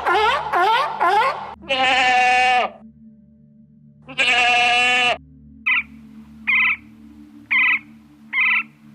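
Animal calls: a few short calls that rise in pitch, then two long, even bleats about two seconds apart, then a run of short, high calls about once a second.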